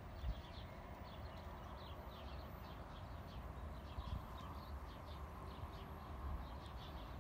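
Small birds chirping repeatedly over a steady low rumble of wind on the microphone.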